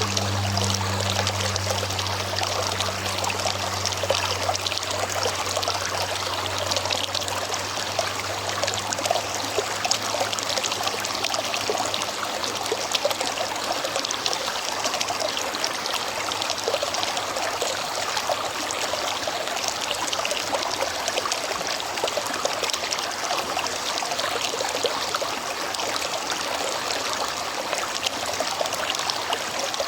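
River water flowing steadily, an even rushing with fine splashing throughout.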